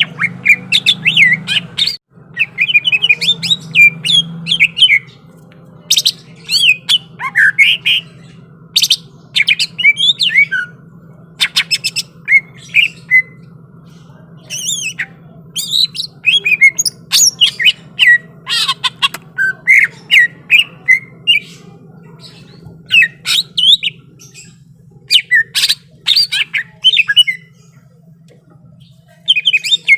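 Green leafbird (cucak ijo) singing in loud, rapid bursts of sharp, fast-gliding whistled notes and harsh chattering calls, phrase after phrase with short pauses, over a faint steady low hum.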